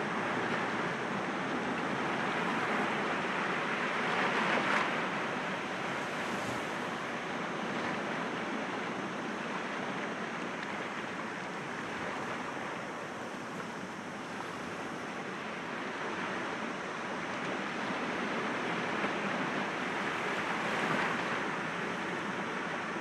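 Sea waves breaking gently against rocks: a continuous wash of surf that swells about four seconds in and again near the end, with a calmer stretch in the middle.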